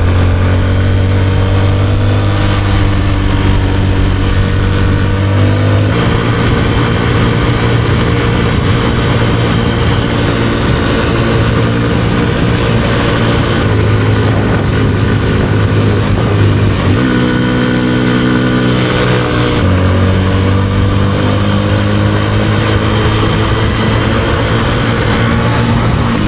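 Kawasaki KLX150E dirt bike's single-cylinder engine running under way at a steady pace. Its note shifts a few times, about six seconds in and again around seventeen and nineteen seconds in.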